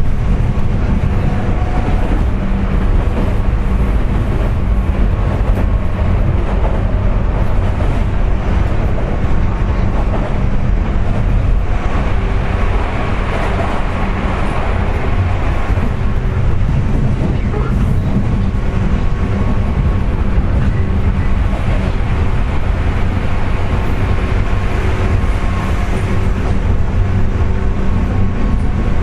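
JR West 201 series electric train running at speed, with steady wheel-and-rail rumble and a whining jet-like tone from the traction-motor bearings, a noise caused by electrical corrosion of the bearings. The rushing noise swells twice, about a dozen seconds in and again near the end.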